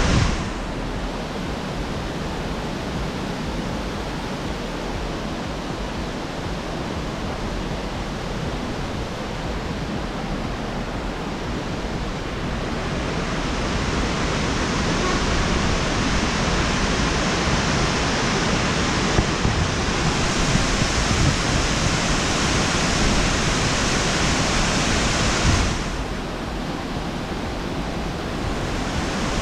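Waterfall rushing steadily into a pool, a continuous hiss of falling water that grows brighter from about thirteen seconds in and drops back near the end.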